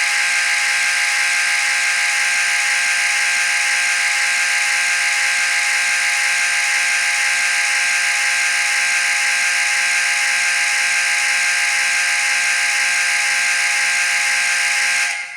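A steam locomotive whistle played by a Soundtraxx Econami DCC sound decoder through the model loco's small speaker. It is one long, steady, multi-toned blast held for about fifteen seconds, then it cuts off suddenly near the end.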